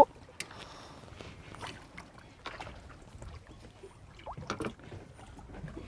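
Faint water sounds with a few soft clicks and knocks scattered through, a little louder about four and a half seconds in, while the float rig is cast to build up the baited spot.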